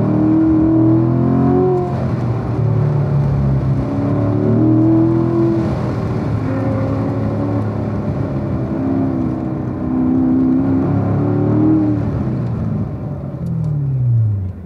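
2017 Corvette Grand Sport's 6.2-litre V8 pulling hard in second gear, heard from inside the cabin, its note rising and falling as the throttle is worked on and off. Near the end the revs fall away steadily and the sound drops as the car slows.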